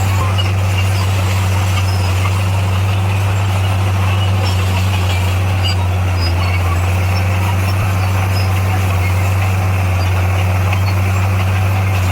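Motor grader's diesel engine running at a steady speed: a constant low drone with no change in pitch.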